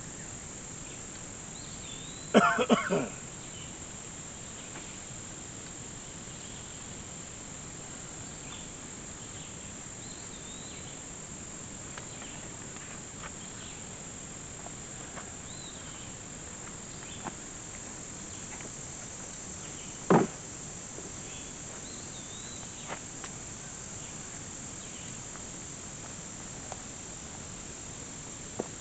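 Steady high-pitched chorus of crickets or other insects, with faint short chirps over it. Two brief loud sounds break through: a quick run of three or four about two seconds in, and a single one near the twenty-second mark.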